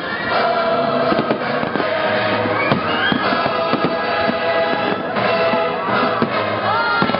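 A fireworks display, with aerial shells and fountain effects going off in a dense run of bangs and crackles. Music plays alongside.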